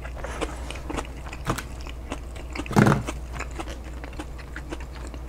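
A person chewing a mouthful of a chicken burrito bowl close to a clip-on microphone: many small wet mouth clicks and smacks, with one short voiced sound about three seconds in.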